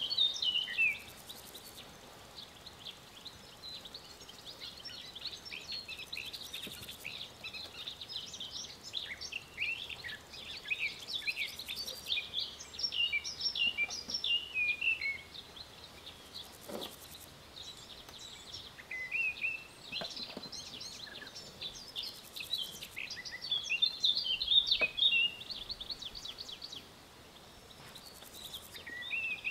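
Many small birds chirping and twittering without a break, in quick overlapping calls, busiest about a third of the way in and again near the end.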